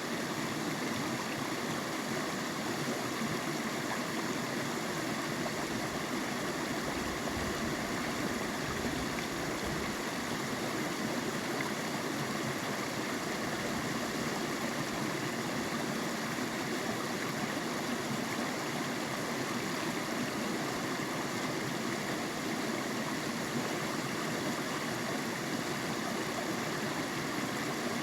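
Creek water flowing steadily, with a brief low rumble between about seven and ten seconds in.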